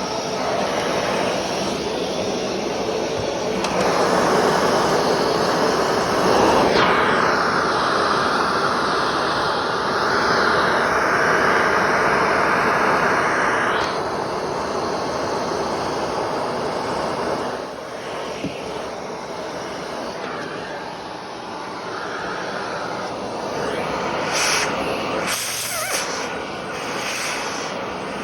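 Vacuum cleaner running continuously, its rushing noise shifting in loudness and tone as it is worked over the floor.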